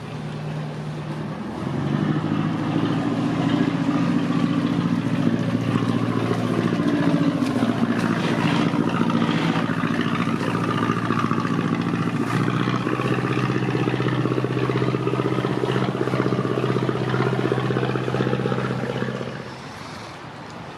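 A boat's engine running steadily close by. It comes up loudly about two seconds in, shifts in pitch about halfway through, and drops away near the end.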